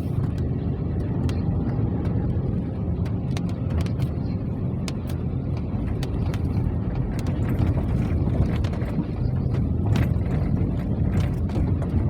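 Rain falling, with scattered drops tapping sharply close by over a steady low rumble.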